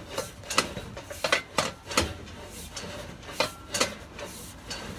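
Irregular sharp clicks and clanks, about two a second, from a sewer inspection camera's push cable and reel being fed by hand into the line.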